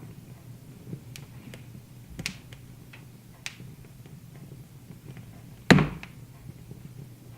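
Wood fire crackling: scattered sharp pops over a low steady hum, with one much louder knock near six seconds in.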